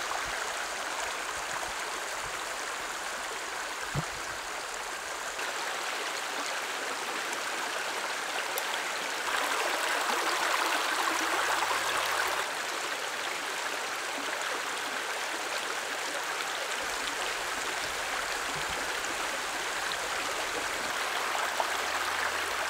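A stream running steadily, its water noise growing louder and brighter for about three seconds around the middle.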